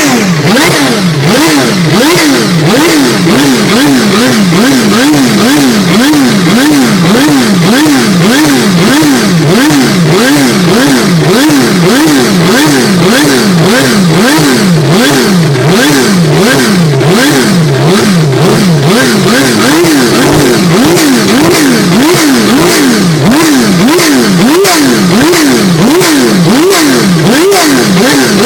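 Ferrari 333 SP's V12 race engine being blipped again and again, its pitch rising and falling about three times every two seconds.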